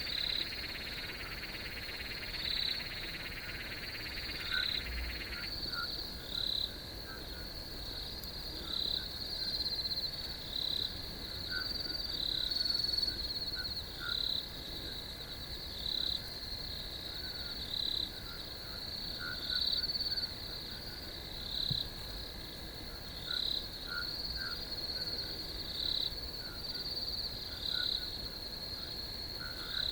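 Crickets chirping in a steady high trill, with louder chirps pulsing about once a second. A lower trilling chorus stops about five seconds in.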